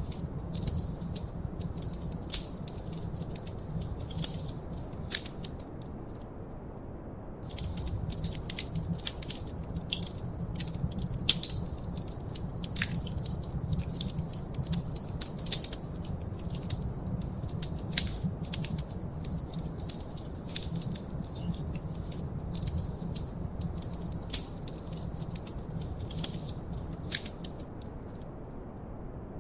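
Wood fire crackling in a fireplace: a dense run of sharp snaps and pops over a low rumble of burning. The popping stops for a second or two about six seconds in, and briefly again near the end, while the low rumble carries on.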